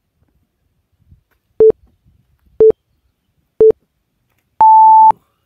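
Countdown timer beeping: three short low beeps a second apart, then one longer, higher beep that marks the end of the one-minute countdown.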